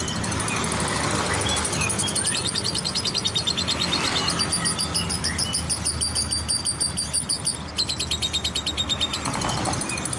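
Lovebird chattering in long runs of fast, high repeated chirps, with a short break about three-quarters of the way through. A steady low traffic rumble runs underneath.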